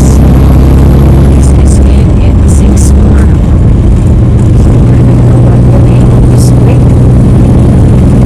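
Semi truck engine and road noise while driving, a loud, steady low drone.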